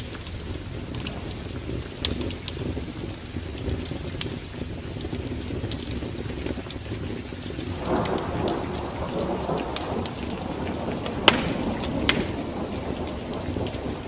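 Fireplace log fire crackling, with sharp scattered pops over a low steady rumble. About eight seconds in, a broader rushing noise swells in underneath.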